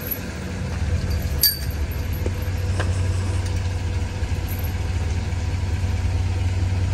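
Engine of the tow SUV idling steadily with a low hum, while hitched to the loaded pontoon-boat trailer. One short sharp click about a second and a half in.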